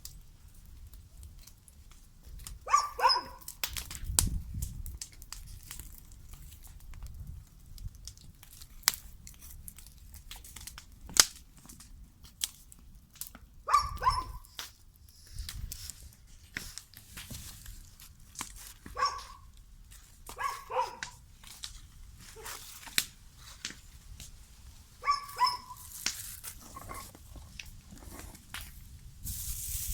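A dog barking in short clusters, about five times, among sharp crackling clicks and the crumpling of paper.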